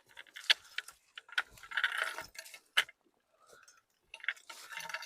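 Footsteps pushing through forest undergrowth: irregular crunching, with sharp snaps of twigs and brush.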